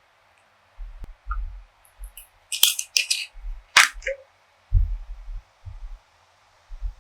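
Food and tableware handled close to the microphone for an eating-sounds recording: soft low bumps throughout, with a few sharp clicks and crackles about two and a half to four seconds in.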